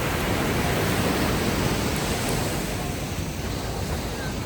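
Ocean waves washing ashore: a steady rush of surf that swells in the first second or so and then eases off.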